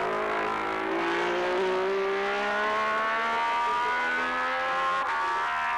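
Racing motorcycle engine at high revs, its pitch climbing steadily as it accelerates, with a brief break and drop about five seconds in, as at a gear change.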